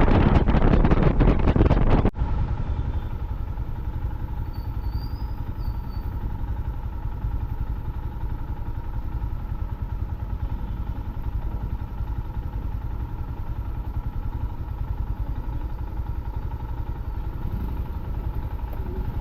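Motorcycle on the move: loud wind rush on the microphone for about two seconds, then it cuts off suddenly. After that, a steady engine hum with a low rumble.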